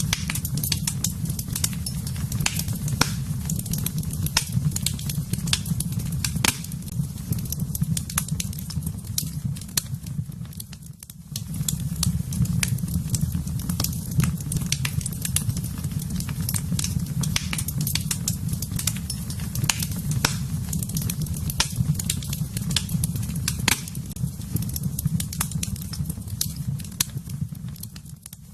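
Wood fire burning in a fireplace: frequent irregular crackles and sharp pops over a steady low roar of the flames. The low roar drops away briefly about eleven seconds in and again near the end.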